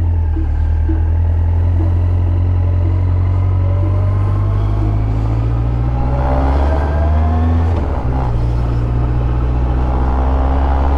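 Yamaha FZS1000 motorcycle's inline-four engine running under way, its pitch rising from about five seconds in, with a short dip near eight seconds before it settles steady again.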